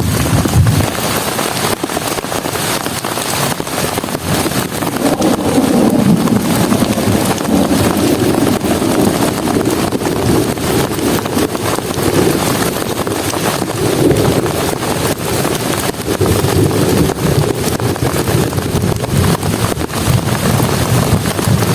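Heavy rain pouring down, a dense, loud hiss of countless drops hitting a surface, with a low, shifting rumble underneath from about five seconds in.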